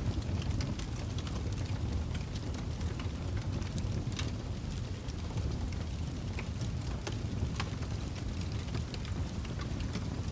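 Wood fire crackling in a fireplace: irregular sharp crackles and pops over a steady low rumble of burning, with a few louder snaps, one about four seconds in and another near eight seconds.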